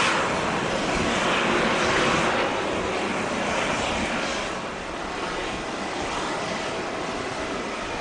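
Jet engine noise from a Boeing 777-300ER's GE90 turbofans: a steady rush that eases off about halfway through.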